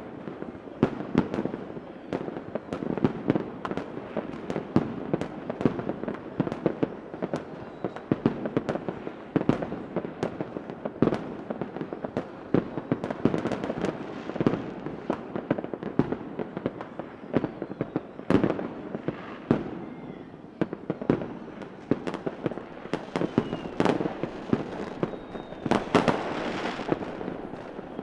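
Fireworks: a continuous barrage of bangs and cracks, several a second, over a steady crackle, with faint rising whistles of rockets now and then.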